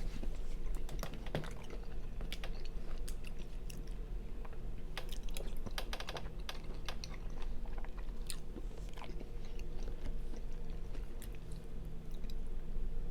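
Close-miked chewing and wet mouth sounds of someone eating white chicken chili soup, a run of small clicks and smacks at irregular intervals. A steady low hum runs underneath.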